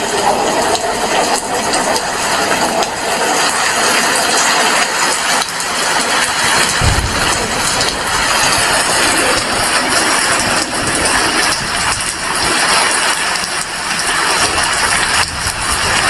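Rain falling steadily: a dense, even hiss made up of many small drop impacts.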